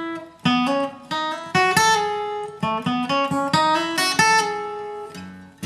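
Acoustic guitar picking a bluegrass melody line, single notes and double-stops played one after another, each ringing briefly, with short breaks about half a second in and near the end.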